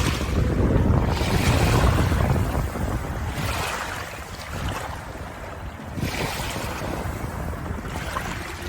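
Moving water, like sea waves, with wind buffeting the microphone; the low rumble is heaviest in the first three seconds and then eases, with a few sudden surges.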